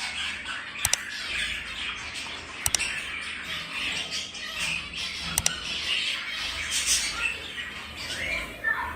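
A group of caged budgerigars chattering and squawking continuously, with a few sharp clicks scattered through.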